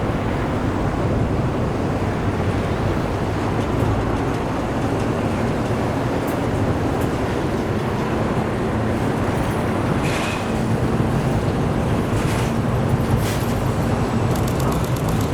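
Train running by with a steady low rumble and a faint engine hum, with a few short high squeaks or clicks in the last third.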